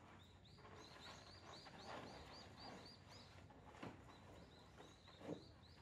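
Faint bird song: a quick, even series of short rising-and-falling chirps, about four a second, with a couple of soft knocks near the end.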